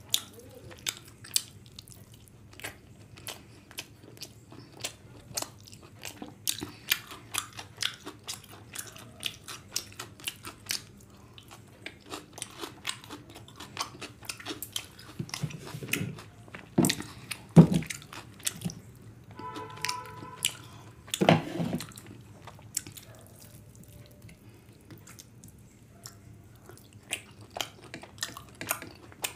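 Close-miked chewing of a mouthful of chicken curry and fried rice: wet clicks and smacks coming in quick runs, with two louder thumps in the middle and a brief hum about two-thirds through.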